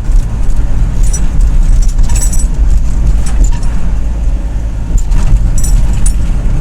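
Inside the cab of a mini truck driving on a highway: a steady low engine and road rumble, with light rattles a few times.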